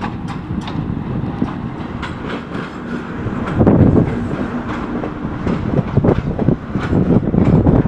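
Goods train rolling past close by, its wheels clacking over the rail joints in a run of repeated knocks over a steady rumble, growing louder about three and a half seconds in.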